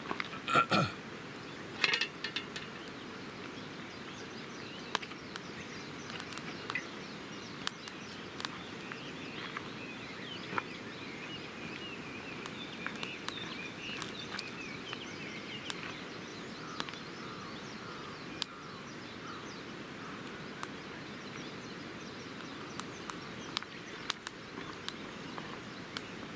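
Campfire wood crackling with irregular small pops and snaps over a steady background hiss, while birds call and chirp now and then.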